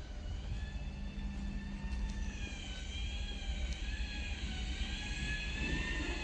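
Heavy truck running: a steady low rumble with a high, wavering whine over it that grows stronger after about two seconds.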